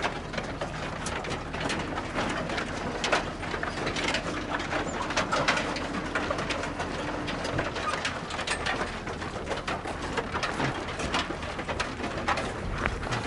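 A truckload of sheep stirring in the road train's stock crates, with a constant patter of small knocks and clatters from hooves on the decks and a mass of low animal calls.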